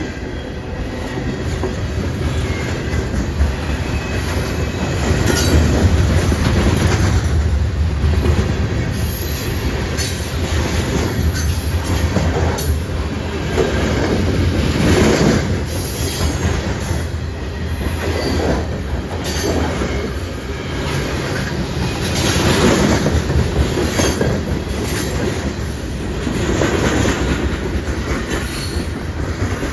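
Train rolling past at close range, a heavy low rumble with its wheels knocking over rail joints every second or two.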